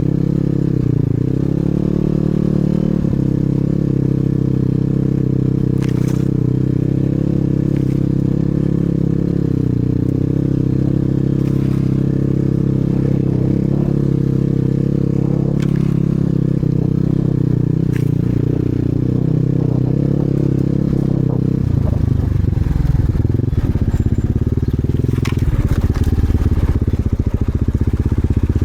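Enduro dirt-bike engine running steadily under part throttle, with a few sharp clicks and knocks from the ride. About 22 seconds in, the engine note turns rougher and a little louder, as under harder throttle.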